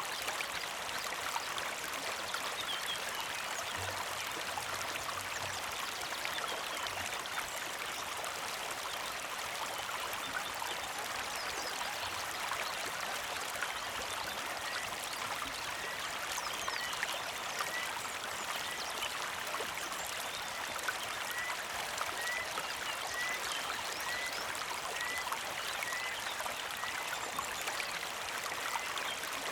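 Small creek flowing and trickling steadily over rocks. From about halfway on, a bird repeats a short rising chirp about once a second.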